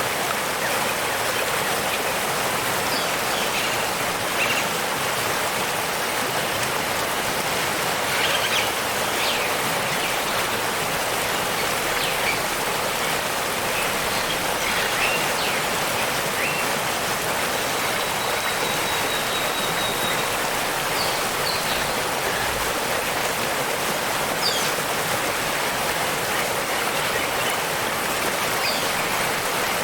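Steady, even rush of a waterfall, with short bird chirps scattered throughout and a thin held whistle a little past the middle.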